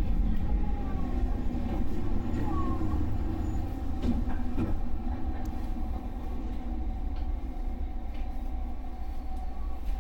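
JR West 221 series electric train rolling slowly on the rails with a low rumble and a few wheel clicks, growing quieter in the second half as it slows.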